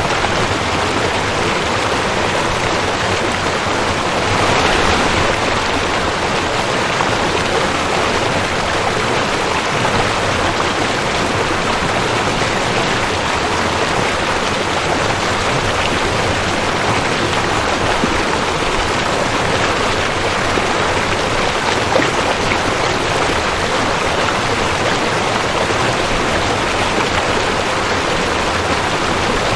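Rushing creek: a steady, dense rush of flowing water, swelling briefly a few seconds in.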